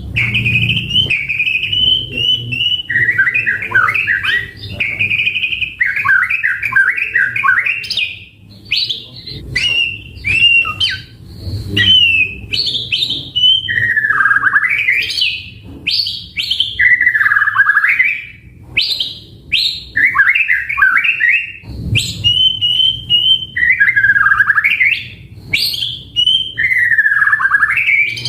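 White-rumped shama (murai batu) in full song: a loud, continuous run of varied phrases, with clear whistles, rapid trills and swooping notes that dip down and rise again, one phrase after another with only brief pauses.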